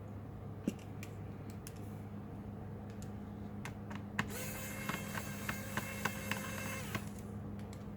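A small electric screwdriver's motor whirs steadily for about three seconds while laptop screws are worked, amid light clicks and taps of plastic and metal laptop parts being handled.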